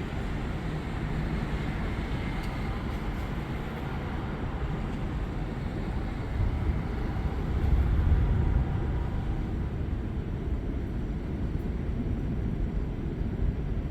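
Thunder rumbling low and long, swelling to its loudest about eight seconds in, over a steady wash of storm noise.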